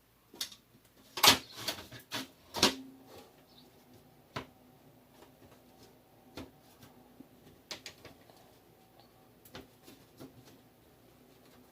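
Scattered clicks and knocks of small objects being handled, with two louder knocks in the first three seconds, over a faint steady hum.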